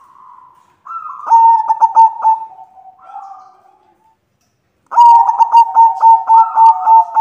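White zebra dove cooing: two bouts of quick, rippling staccato notes near the same pitch. The first starts about a second in and the second, louder one starts about five seconds in, after a short pause.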